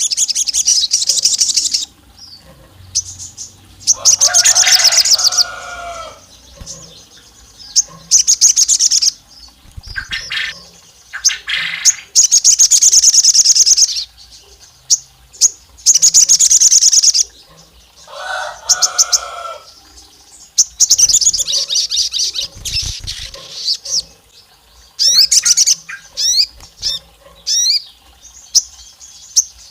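Crimson sunbird (sogon) singing: a run of high, fast rattling trills, each lasting one to two seconds with short gaps between, with a couple of lower, harsher bursts among them. Near the end the song breaks into a string of quick, sharp chirps.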